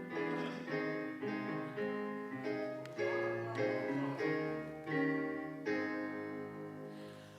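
Piano playing a hymn interlude, chords struck about once or twice a second and left to ring and fade, leading into the next sung verse.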